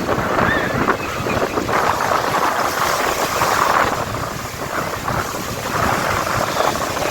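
Wind buffeting the microphone over the rush of water on a boat moving at sea.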